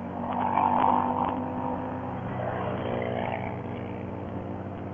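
Honda Valkyrie's 1832cc flat-six motorcycle engine running steadily on the road, with other vehicles passing close by: the sound swells for about a second just after the start, and again more faintly around three seconds in.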